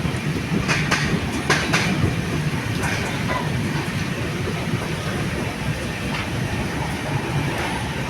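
Train running on the rails, a steady rumble with a few sharp clicks in the first few seconds, the wheels passing over rail joints.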